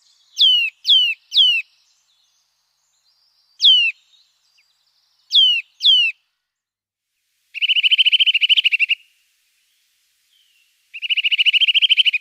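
Eurasian nuthatch calling: sharp whistled notes that fall steeply in pitch, three in quick succession, then one, then a pair. These are followed by two fast, even trills of about a second and a half each.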